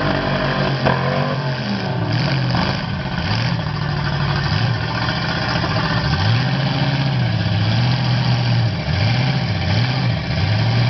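Demolition derby car engines revving hard under load as the cars push against each other, the pitch rising and falling again and again.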